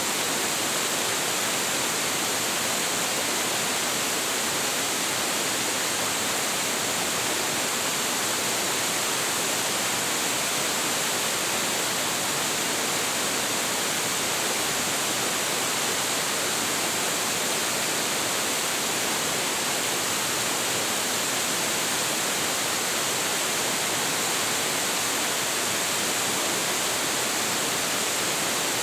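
A large waterfall with a heavy flow of water, plunging about 25 m, giving a steady, unbroken rush of falling water.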